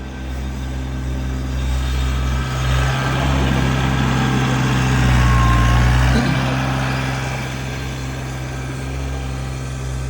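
A motor vehicle's engine running steadily at low revs, swelling slightly about five to six seconds in and easing again.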